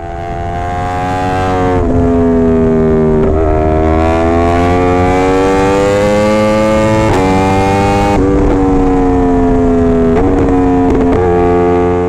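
Yamaha YZF-R1 inline-four sport bike engine running hard, fading in over the first two seconds. Its pitch climbs slowly and then drops sharply several times, as in upshifts through the gears.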